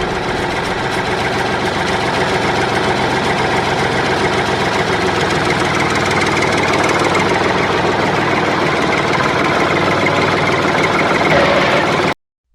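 An engine running steadily, cutting off abruptly near the end.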